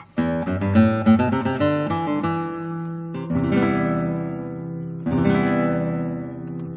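Acoustic guitar music: a run of quick plucked notes, then strummed chords left ringing, one about three seconds in and another about five seconds in.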